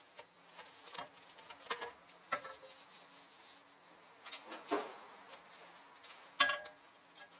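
Irregular creaks and rubbing squeaks from a Toyota Esquire minivan's suspension while driving, coming a second or so apart with the sharpest creak near the end, over a faint steady low hum; the owner ties the noise to the shock absorbers.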